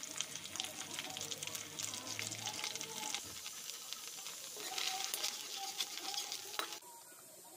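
Goat brain and ginger-garlic paste sizzling and crackling in hot oil in a metal kadai. A metal spoon stirs and scrapes the pan near the end, and the sizzle drops away sharply about seven seconds in.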